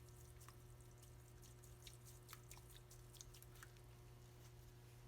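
Near silence: a faint steady hum with scattered faint ticks.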